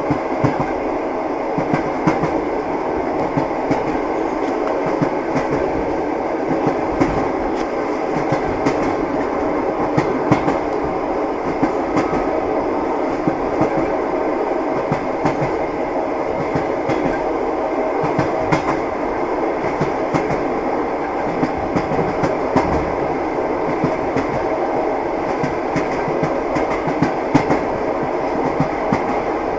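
Passenger train car running along the rails, heard from inside the carriage: a steady rumble with the clickety-clack of the wheels knocking over rail joints again and again.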